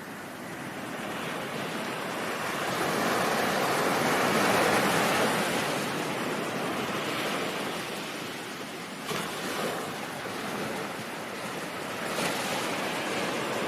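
Ocean surf: a wave builds and breaks with a swelling rush about four seconds in, then washes back, and a smaller surge rolls in near the end.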